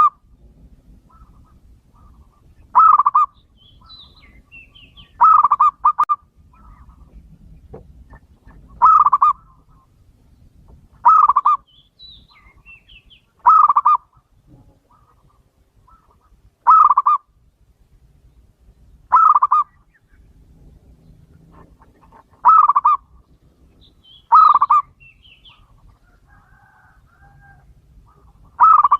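Male zebra dove (perkutut) cooing: short bursts of rapid coo notes, repeated about every two to three seconds, ten or so times. Faint high chirps of other small birds sound between the calls.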